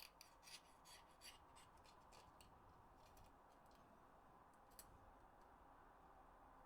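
Faint scratching and clicking of small cleaning work on plastic PS4 controller parts: a quick run of light scrapes and clicks in the first couple of seconds, then a single click near five seconds in.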